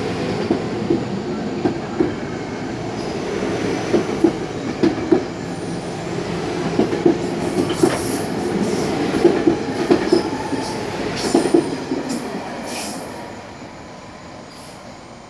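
A SEPTA Silverliner IV electric commuter train rolls past close by as it pulls out, a steady rumble with irregular sharp clicks from its wheels on the track. About three quarters of the way through, the sound falls away as the last car moves off.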